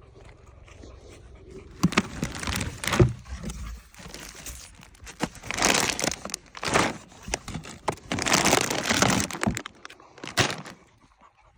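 Packaging crinkling and tearing in irregular bursts, with sharp cracks and crunches mixed in.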